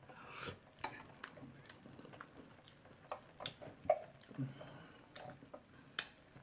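Eating sounds close to the microphone: chewing and lip smacks with scattered short clicks, sharpest a little before the four-second mark.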